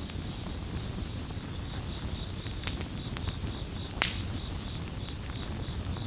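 Campfire crackling, with scattered sharp pops, two louder ones near the middle, over the low steady sound of the burning wood. A cricket chirps in a high, even pulse, about four chirps a second.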